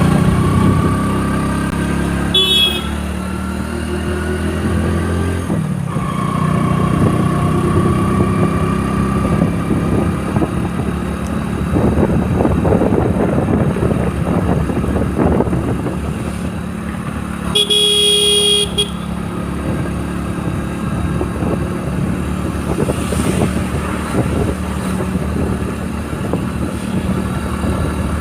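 Motorcycle engine running steadily while riding, its pitch rising as it speeds up over the first few seconds. A vehicle horn gives a short beep a couple of seconds in and a longer honk of about a second roughly midway.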